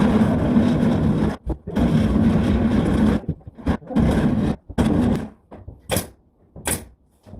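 A power tool's motor runs under load in three bursts of about one to one and a half seconds each. It is followed by two sharp clacks near the end.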